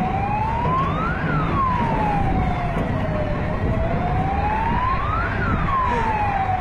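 Emergency vehicle siren wailing, its pitch rising and falling slowly, with one full rise-and-fall about every four seconds, over a steady low background noise.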